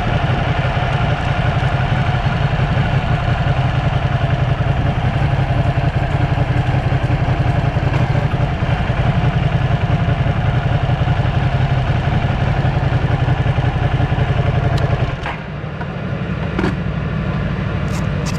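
Sport motorcycle engine running at a steady, unchanging pitch with no revving, then dropping lower and quieter about fifteen seconds in.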